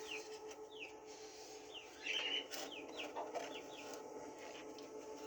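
Chickens on a rooftop coop: repeated short falling peeps of chicks, with a louder burst of hen clucking about two seconds in.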